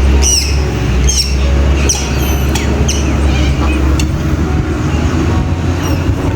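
Birds squawking in a quick series of high, arching calls, thick for the first three seconds and sparser after, over a steady low rumble.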